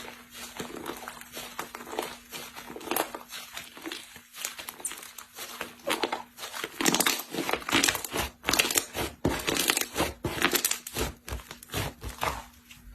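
Slime being squeezed and worked by hand, giving dense crackling and crunching clicks that grow busier and louder from about six seconds in.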